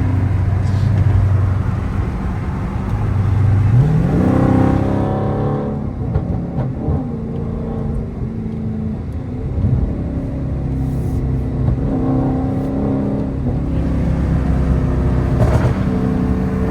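Tuned Dodge Charger Daytona's HEMI V8 exhaust from the driver's seat: the engine pulls hard about four seconds in with a rising pitch, then settles into steady cruising drone with small changes in throttle.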